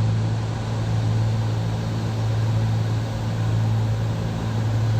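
Cessna 310's twin piston engines and propellers droning steadily in the cockpit on short final approach, a constant low hum over rushing noise.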